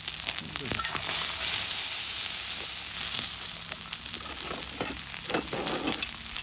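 Food sizzling on a thick 6 mm steel griddle plate: a steady frying hiss with scattered small pops and crackles.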